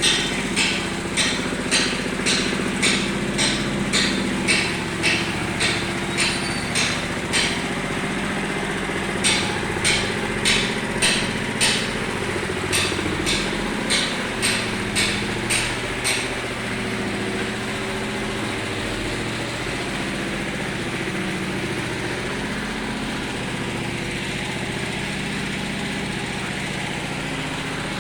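Small petrol engine of a concrete-finishing machine running steadily. For the first sixteen seconds or so, sharp knocks about two a second sound over it, with a short break partway through, then the engine runs on alone.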